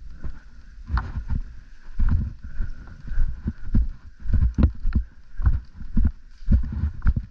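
A player's footsteps and gear rustling close to the microphone: irregular dull thumps, about one or two a second.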